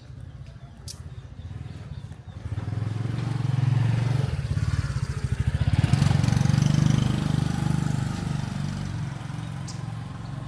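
Engine of a motor vehicle passing close on a city street: a low, pulsing rumble that grows louder about two and a half seconds in, is loudest around the middle, and fades toward the end.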